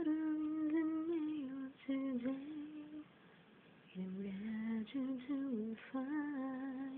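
A single high voice humming a slow melody unaccompanied, in long held notes with a brief break about three seconds in.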